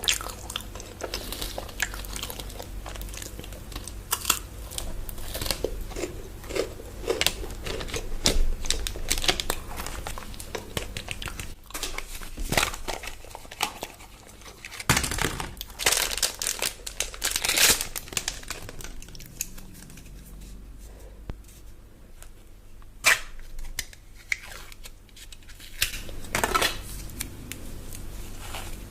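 Chocolate bar wrappers crinkling and tearing, mixed with close-up chewing and crunching of chocolate, in a string of short, sharp crackles.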